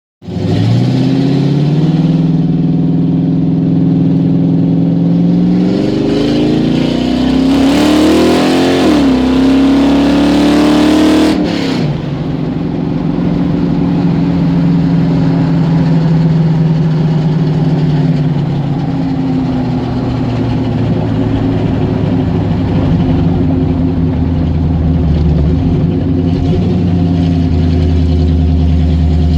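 Car engine running, then revved: the pitch climbs from about six seconds in, dips briefly, climbs again, and drops off sharply near twelve seconds, after which the engine settles back to idle.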